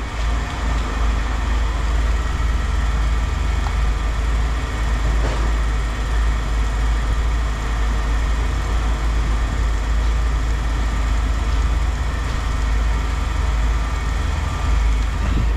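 Steady low rumble of running machinery, with an even noisy hiss over it.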